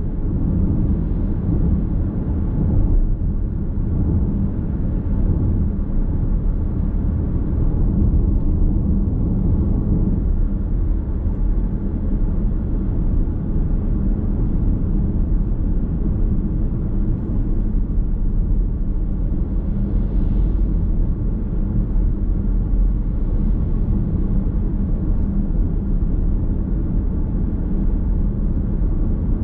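Steady road and tyre noise of a car cruising, heard from inside the cabin, with a low drivetrain hum and no sudden events.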